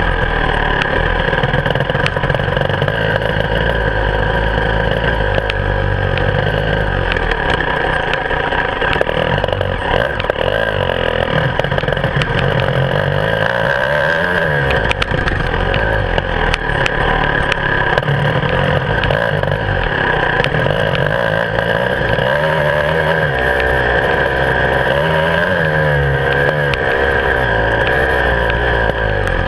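Beta 300RR two-stroke enduro motorcycle engine heard close up from the handlebars while riding, its pitch rising and falling repeatedly as the throttle is opened and rolled off through the course.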